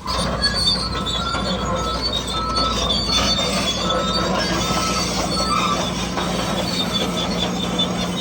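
Radio-controlled model bulldozer running: a steady low motor hum with short high squeaks repeating over and over, like metal tracks and gears squealing.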